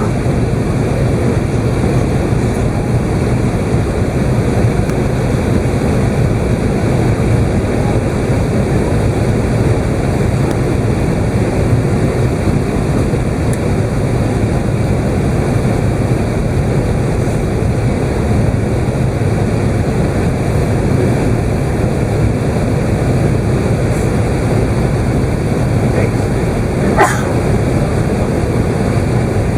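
Steady, loud cabin noise inside an Airbus A380: the jet's engines and airflow heard through the fuselage as a deep, even rush. A single brief click sounds near the end.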